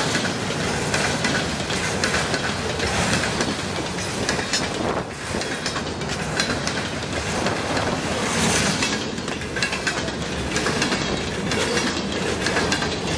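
Freight train cars passing at speed close by: a steady loud rush and rumble with the wheels clicking rapidly over the rail joints.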